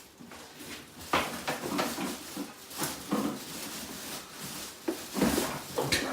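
Irregular knocks, bumps and rustling of cardboard packaging as a boxed pressure washer is wrestled out of its box.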